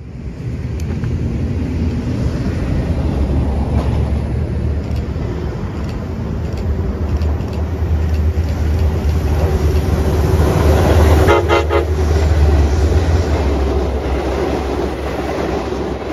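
Metro-North train approaching and passing close by, its rumble building, with a short horn blast about eleven seconds in.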